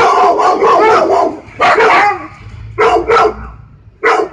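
Dog barking loudly in quick runs of several barks, with short pauses between the runs.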